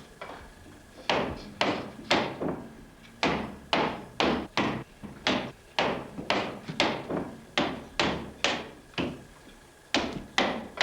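Short-handled axe chopping small pieces of wood from the top of a strap groove cut into a wooden saddle centerpiece: about twenty sharp, quick strikes, roughly two a second, with short pauses after the first second and near the end.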